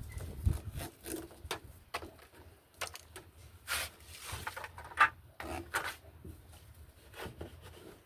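Irregular knocks, clicks and short scrapes of washing-machine parts being handled during a repair, with one sharper knock about five seconds in.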